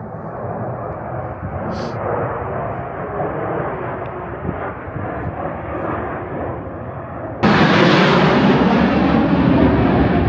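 Airplane flying over, its engines making a steady rushing noise that builds over the first couple of seconds. About seven seconds in, the noise jumps suddenly to much louder.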